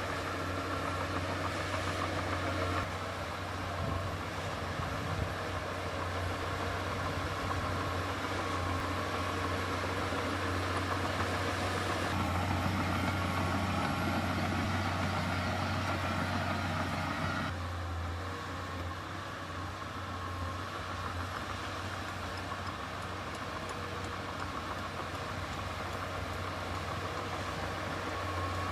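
Heavy diesel engine of earth-moving machinery running steadily. It works harder for a few seconds about halfway through, then eases back.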